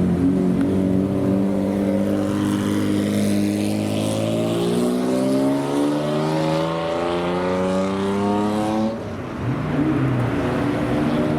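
Supercar engine accelerating, its pitch climbing steadily for about nine seconds, then dropping off suddenly; a lower engine note carries on after that.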